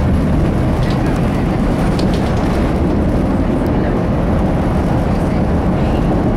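Steady rumble of a CTA rapid-transit train running along the track, heard from inside the car, with a couple of faint clicks about one and two seconds in as the wheels cross switches.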